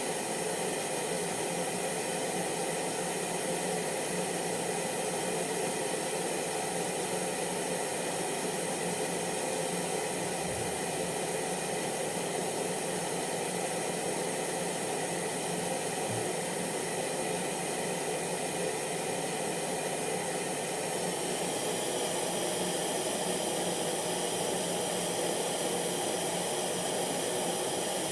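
Hair dryer running steadily, a continuous blowing rush with a faint motor hum and high hiss; its upper tone shifts slightly about two-thirds of the way through.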